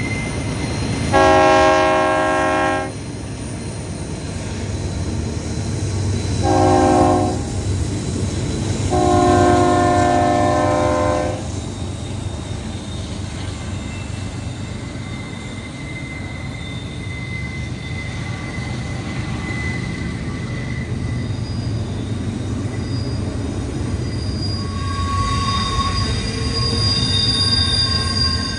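Union Pacific freight train's diesel locomotive horn sounds three blasts, each several tones at once, the middle one short and the last the longest, over the steady low rumble of the train. Later the train's steel wheels squeal with thin high tones as the long train of container cars rolls through the curve.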